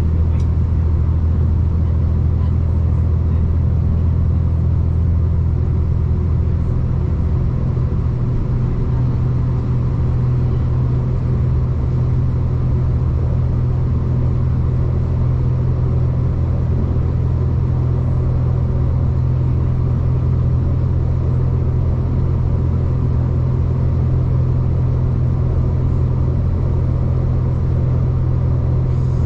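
A V/Line diesel passenger train on the move, giving a steady low rumble. Its engine drone shifts to a higher pitch about seven seconds in.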